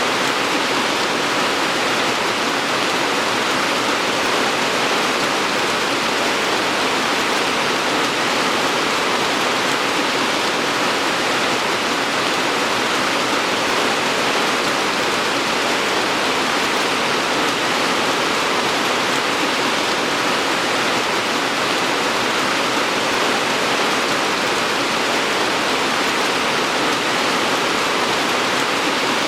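Steady rain falling, an even hiss without distinct drops or changes.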